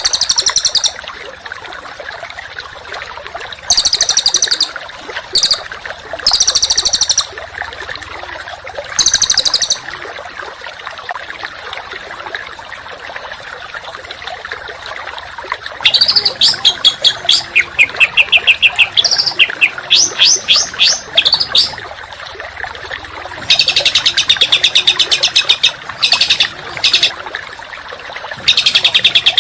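Songbird singing in rapid, harsh bursts of fast repeated high notes: several short bursts in the first ten seconds, then after a pause a long run of quick sweeping notes followed by dense trills, over a steady hiss.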